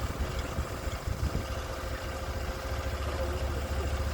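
Sawmill engine idling steadily, with a low, even engine sound and no cutting heard.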